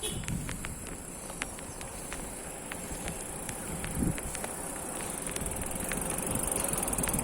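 Steady high-pitched insect buzz with scattered light clicks over a low wind and road rumble that grows louder near the end.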